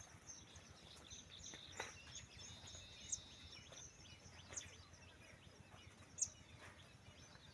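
Faint outdoor birdsong: scattered short high chirps with a few sharper single calls and a brief held high note, over a low steady background rumble.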